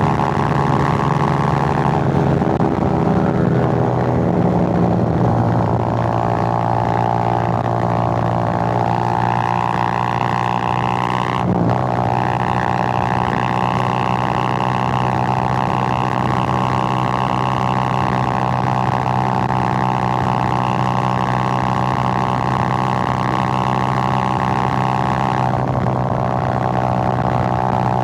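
Suzuki GN125's single-cylinder four-stroke engine running on the move, its pitch shifting a few seconds in, breaking briefly about eleven seconds in, then holding steady until another change near the end.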